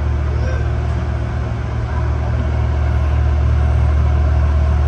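Passenger train running, heard from inside the carriage: a steady low rumble and hum.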